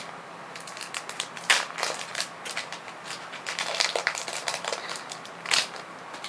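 Foil booster-pack wrapper crinkling and crackling as it is handled and torn open, with irregular sharp crackles, loudest about a second and a half in and again near the end.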